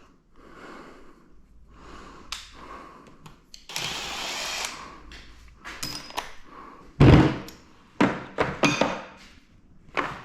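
Hand tools and metal engine parts being handled during an engine teardown: scattered clanks and knocks, with one heavy thunk about seven seconds in and a few sharper clanks after it.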